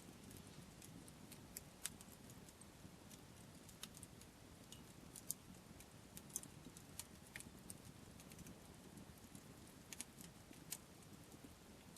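Wood campfire crackling quietly, with irregular small sharp pops and snaps over a faint low rumble.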